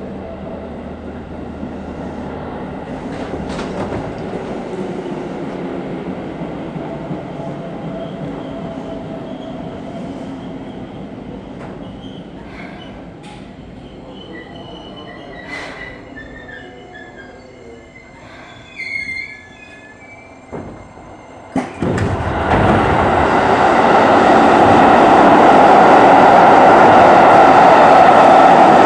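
Seibu 3000 series electric train heard from inside the car, running and slowing, its motor tone falling, with high squeals and clicks as it comes to a halt. Near the end a sharp click is followed by a sudden, much louder steady rushing noise.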